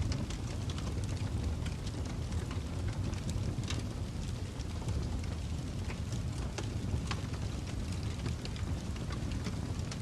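Wood fire crackling in a fireplace: a steady low rumble of flames with irregular sharp pops and crackles throughout.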